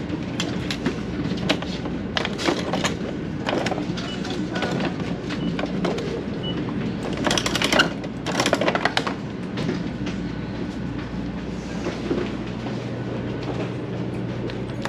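Shinkansen bullet train running, heard from inside a car as a steady low rumble, with scattered clicks and rattles, the loudest cluster about seven to nine seconds in.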